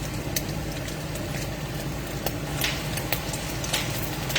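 Italian sausage meat sizzling in a frying pan, with irregular crackles and pops over a steady low hum.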